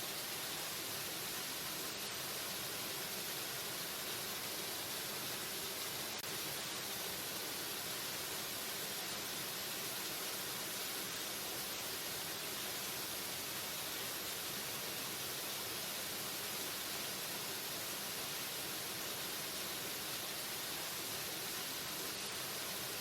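Waterfall: a steady rush of falling water, an even hiss that never lets up.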